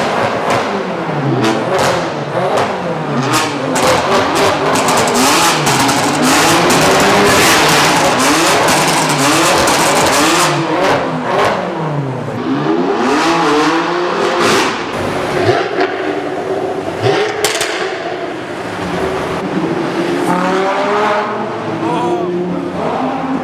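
Supercar engine being revved again and again, its pitch rising and falling in quick sweeps, with sharp exhaust pops and crackles between revs.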